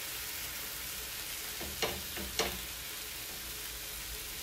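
Chicken breasts sizzling on a hot flat griddle, a steady hiss. A little under halfway through, tongs clack sharply against the griddle three times in quick succession, twice loudly.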